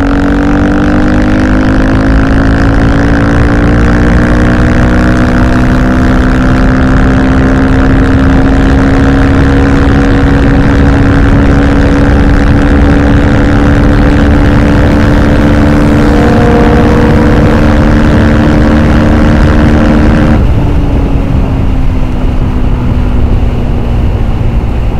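Vehicle engine running under steady load for about twenty seconds, its pitch creeping slowly upward with road and wind noise. About twenty seconds in, the note suddenly drops and goes duller, as if the throttle is closed.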